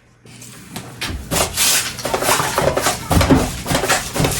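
Irregular rubbing and scraping, faint at first and loud from about a second in.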